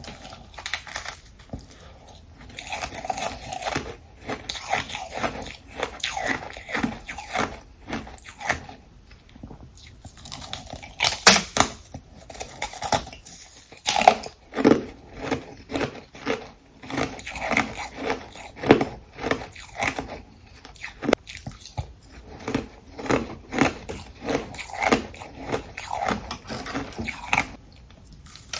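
Ice being crunched and chewed close to the microphone: dense runs of rapid crackling crunches in several bouts with short pauses between them, and a few louder, sharper bites.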